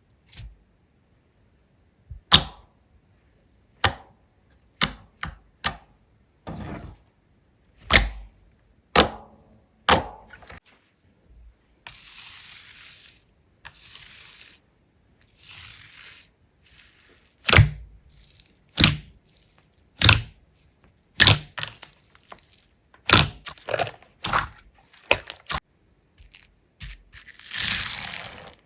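Slime being pressed and squeezed by hand, giving a series of sharp, separate pops and clicks. Partway through there are a few seconds of soft, hissing crackle.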